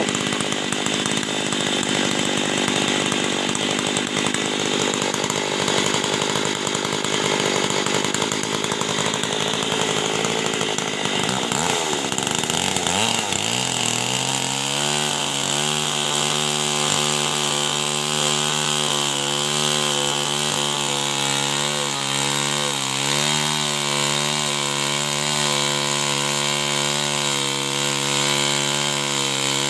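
Two-stroke chainsaw running at high revs, cutting wood. About twelve seconds in the throttle is released: the revs fall away and it settles into a steady idle.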